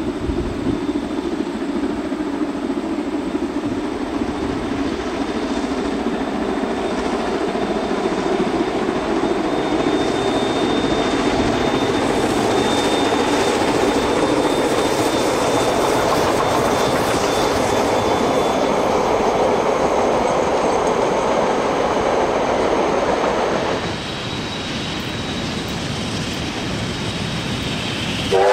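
Steam-hauled passenger train, led by a Ja class locomotive, rolling past with its carriages clattering over the rail joints, a steady rolling noise that grows louder as the train passes, with a faint high wheel squeal for a while in the middle. About 24 seconds in it changes abruptly to a quieter, steadier sound of the train approaching.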